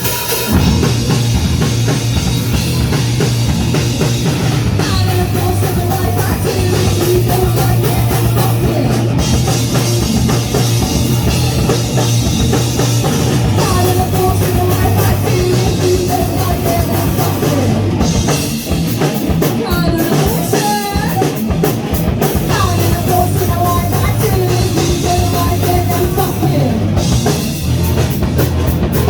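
Punk rock band playing live and loud: a full band with a driving drum kit.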